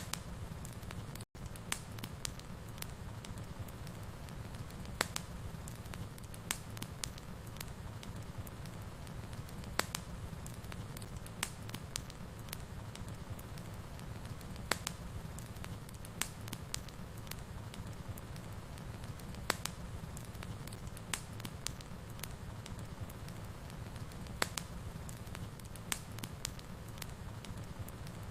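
Wood fire in a fireplace crackling, with irregular sharp pops over a steady low rumble of burning. A split-second gap in the sound comes about a second in.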